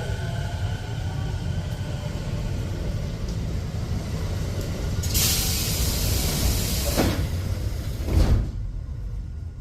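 Train's sliding doors closing: a loud air hiss about five seconds in, then a knock and a heavier thud as the doors shut, over the low hum of the standing train.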